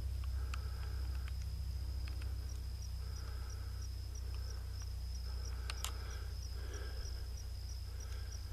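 Crickets trilling steadily in one high note, with a regular pulse of ticks, over a loud low steady rumble.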